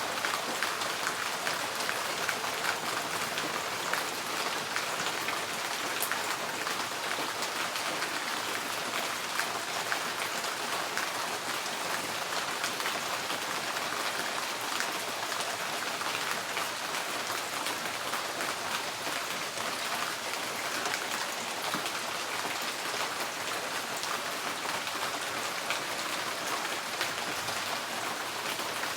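Steady rain pattering on a tin porch roof, a dense hiss of countless fine drop ticks that holds at an even strength.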